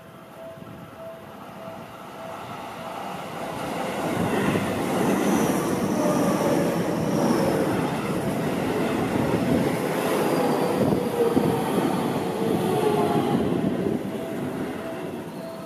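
Seibu electric commuter train passing close by. It grows louder over the first few seconds as it approaches and runs loudest for about ten seconds as the cars go past, with a whine that falls slowly in pitch. It drops away near the end.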